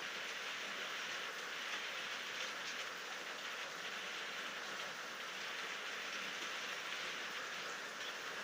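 Steady rain falling: an even hiss with faint drops ticking through it.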